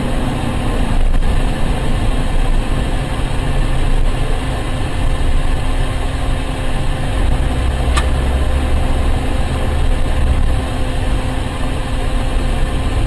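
Car engine and road noise picked up by a dash cam: a steady low rumble, heavier for a few seconds past the middle, with a single sharp click about eight seconds in.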